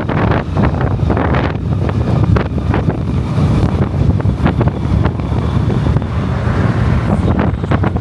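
Motorcycle running while being ridden, its low engine rumble mixed with heavy wind buffeting on the microphone.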